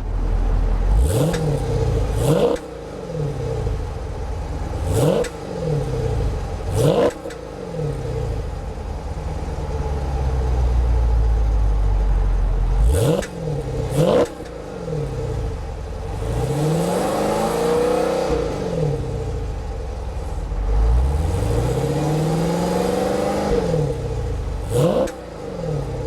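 A 2012 Chrysler 300C SRT-8's 6.4-litre 392 Hemi V8 being revved in park: a string of quick, sharp throttle blips that drop straight back to idle, plus two longer revs in the second half, each climbing and held for about three seconds before falling away. The revs run against the car's park rev limiter of around 4,000 rpm.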